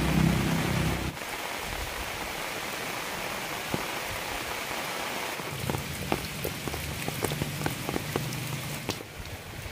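Steady rain falling on leaves and ground, a hiss with a low rumble that drops away about a second in. Past the middle, distinct large drops plink into a muddy rain puddle.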